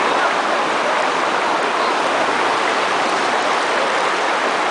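Rushing water of a waterfall, a loud, steady hiss.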